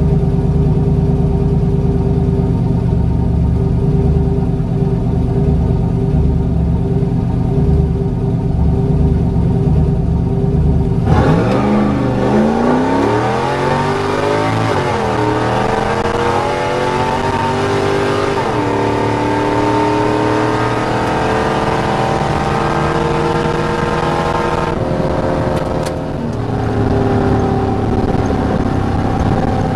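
A built LQ9 6.0-litre V8 in a Chevy C10 pickup, heard from inside the cab. It idles with a pulsing low rumble, then launches at full throttle about eleven seconds in. Its revs climb, drop and climb again through two upshifts, then fall away as the throttle is lifted near the end.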